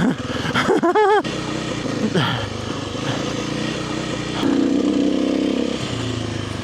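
Kawasaki KLX300R's single-cylinder four-stroke dirt bike engine running under way on the trail, its revs rising and falling. The engine is louder and fuller for about a second and a half past the middle, then eases back.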